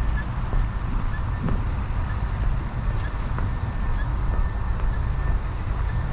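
Wind buffeting the microphone: a steady, gusting low rumble, with a few faint short high chirps above it.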